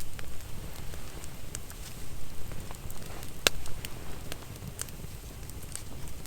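Wood campfire crackling: sharp, irregular pops over a steady low rumble.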